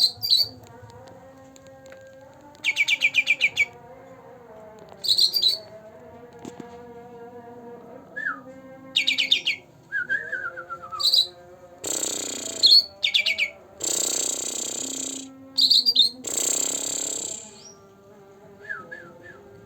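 Caged songbird singing in short bursts of rapid high chirping trills, with a couple of quick falling whistles, then several longer harsh, rasping calls in the second half.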